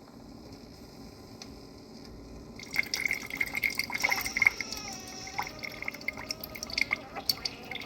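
Keurig K-Iced single-serve coffee maker brewing on its strong setting. A low steady hum runs at first; then, about three seconds in, coffee starts streaming and dripping into the cup with a busy run of small splashes.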